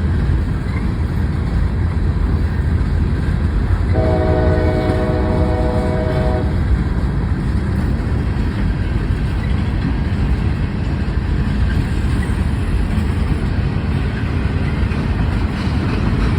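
Steady low rumble of a train, with one horn blast of nearly three seconds about four seconds in.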